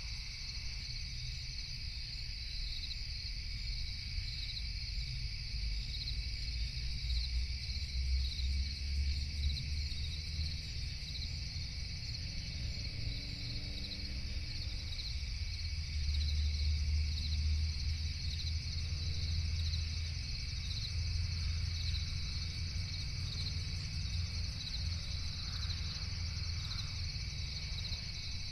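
A night-time chorus of crickets, chirping steadily in a fast pulsing trill that never lets up. A low, steady rumble runs underneath, swelling a little twice.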